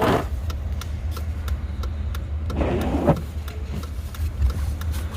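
Truck engine idling, heard from inside the cab, as a steady low rumble with a regular light ticking over it. A brief rustling sound comes about three seconds in.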